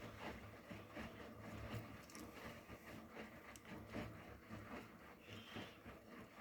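A Bosch tumble dryer and a Miele W360 washing machine running together: a steady low hum with irregular soft knocks, and a brief high tone about five seconds in.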